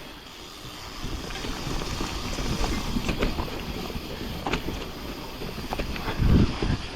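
Mountain bike riding a wet trail: tyre noise and wind on the microphone, with the bike rattling and clicking over bumps and a heavy thump about six seconds in.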